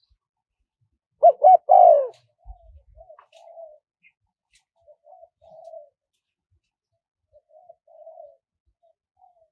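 Spotted dove cooing: a loud phrase about a second in, two short notes and a longer one, followed by fainter repeated coos through the rest.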